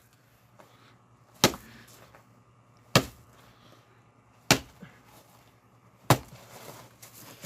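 Axe blows splitting firewood: four sharp chopping strikes into wood, evenly spaced about a second and a half apart.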